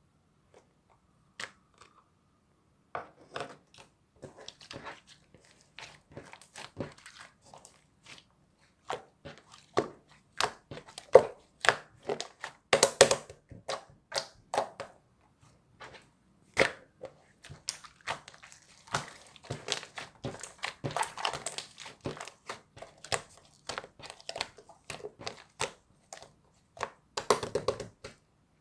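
Slime being squished, stretched and folded by hand, giving a dense, irregular run of sticky clicks and pops that come fastest and loudest in the middle and again near the end.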